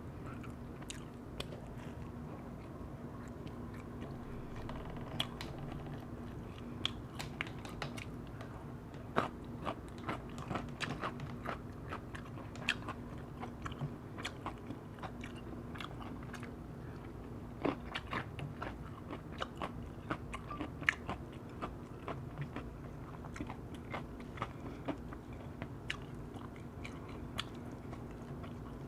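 Close-up eating sounds of oak-wood-fired roast chicken: irregular wet clicks, smacks and crunches of biting and chewing. A steady low hum runs underneath.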